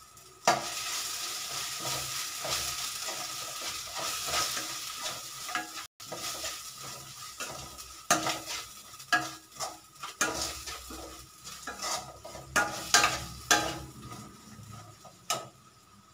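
Sliced onions with ginger-garlic paste and turmeric sizzling in oil in a stainless steel kadai, stirred with a steel slotted spoon. The sizzle starts about half a second in; in the second half the spoon scrapes and clinks sharply against the pan, and near the end it goes quieter.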